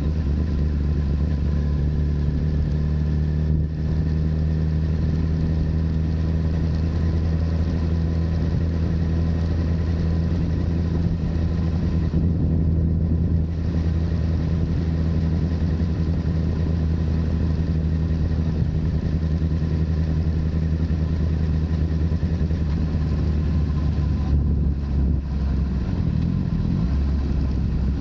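Honda CBR1000RR's inline-four engine running through a Yoshimura full exhaust, holding a steady note, with the pitch shifting slightly near the end.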